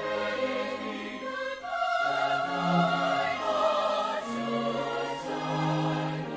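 Choir singing a traditional hymn with instrumental accompaniment, in long held notes that change about every second.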